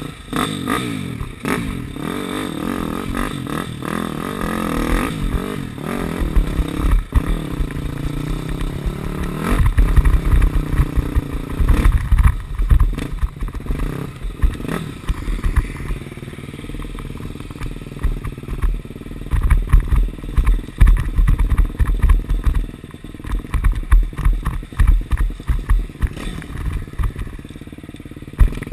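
KTM 250 SX-F's single-cylinder four-stroke engine being ridden hard, revs rising and falling as the throttle is worked. Many loud low thumps run through it, heaviest in the second half.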